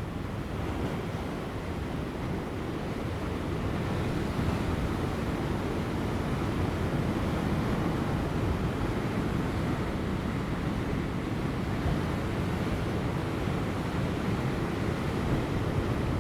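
Ocean waves breaking on rocks: a continuous wash of surf that swells a little louder about four seconds in, with light wind.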